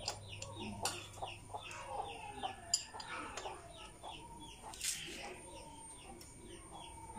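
Birds chirping in a quick, steady run of short falling calls, with a few sharp metallic clicks from a spanner being worked on the engine's bolts.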